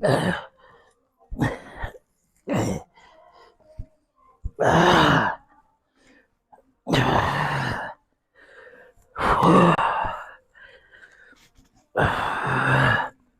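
A person's heavy, effortful exhalations with voiced groans, one roughly every two seconds, as of straining through repetitions of a weight exercise.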